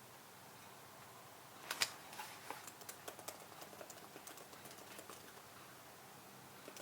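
Typing on a computer keyboard: a run of key clicks lasting about three and a half seconds, starting with two louder strikes, then a lone click near the end.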